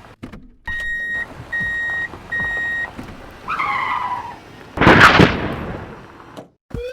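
Sound-effects track: three evenly spaced electronic beeps, each about half a second long, then a falling, wavering tone. About five seconds in comes a loud burst of noise, the loudest moment, which fades away, and a rising whistle-like glide begins at the very end.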